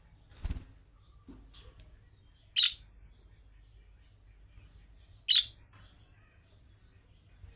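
Budgerigar giving two loud, short, sharp calls about two and a half seconds apart, with a soft knock about half a second in, before the first call.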